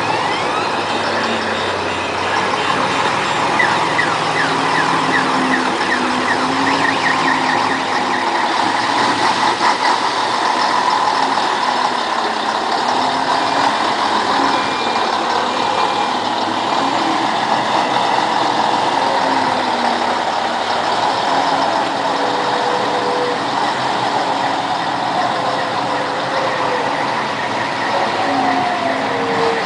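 Scania 112H truck's 11-litre six-cylinder diesel engine running steadily at low revs during a maneuver, its pitch wavering up and down with the throttle.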